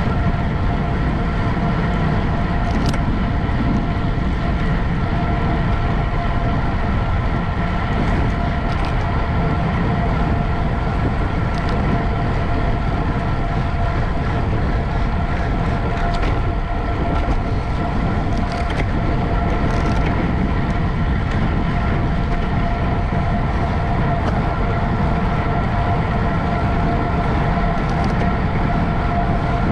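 Steady rush of wind and road noise from a racing bicycle moving at speed, with a steady high whine and a few faint ticks.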